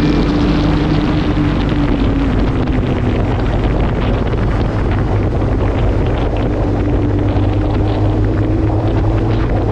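Supercharged inline-four engine of a Kawasaki Ninja H2 motorcycle running at riding speed under heavy wind noise on the microphone. The engine note eases down over the first few seconds and rises again near the end.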